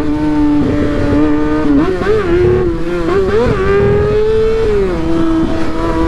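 Motorcycle engine running at a steady cruising speed, its pitch wavering slightly with small throttle changes, then rising a little and dropping back about five seconds in. Heavy wind rumble on the microphone underneath.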